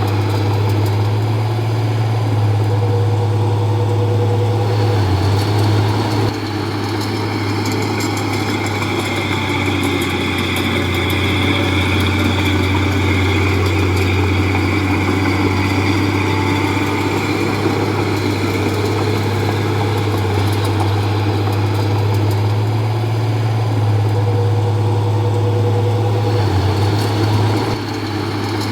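Heavy diesel engine of earthmoving machinery running steadily, with short dips in level about six seconds in and near the end.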